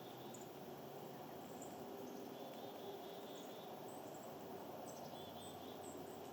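Faint small-bird calls over a steady background hiss: short high chips scattered throughout, and a few quick runs of four or five repeated notes.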